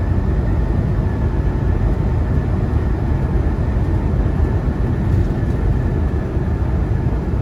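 Semi truck's diesel engine and road noise droning steadily inside the cab while driving on the interstate, with a faint steady whine above the low drone.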